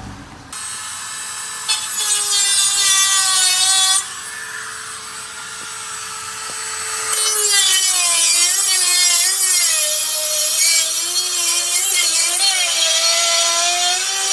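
Power saw cutting, in two runs: a steadier one, then a louder one from about seven seconds in, with a whine that wavers up and down.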